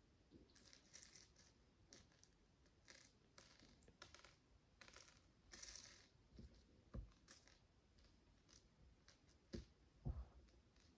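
Tiny plastic micro bricks clicking, rattling and scratching as they are handled and pressed together, with a few soft thumps on the table later on, the loudest near the end. Faint throughout.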